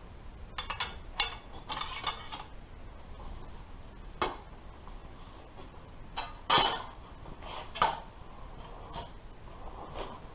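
Light metallic clinks and clanks as pieces of metal are handled and set in place. About eight separate knocks; the loudest comes about six and a half seconds in.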